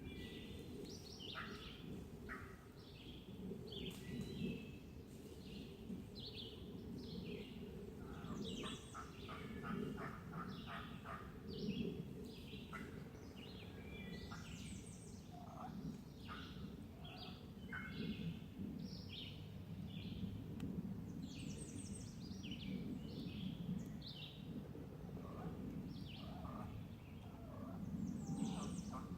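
Many songbirds singing in short chirps and phrases, with a steady low background hum. Twice, about eight seconds in and again near the end, comes a run of rapid repeated turkey notes, from the hunter's turkey call or the distant gobbler.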